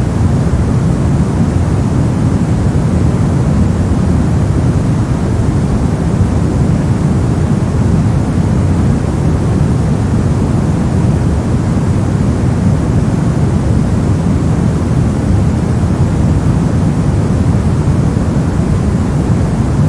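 Continuous white-noise track: an even, unchanging hiss with most of its weight in the low end, so it sounds deep and rumbling rather than bright.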